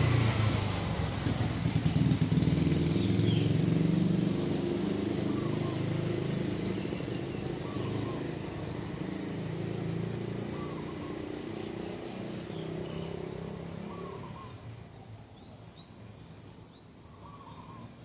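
A motor vehicle's engine passing close by and fading away over about fourteen seconds. Above it a bird gives a short call every few seconds, with other birds chirping.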